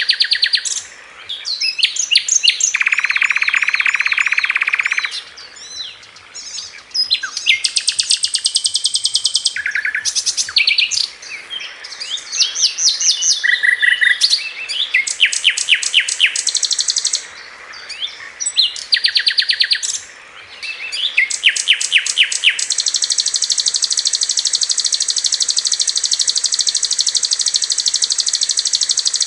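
Sikatan londo flycatcher singing: bursts of fast, high, rapidly repeated notes and rattling trills (the 'tembakan' phrases), separated by short pauses, then a long unbroken high trill from about 23 seconds in.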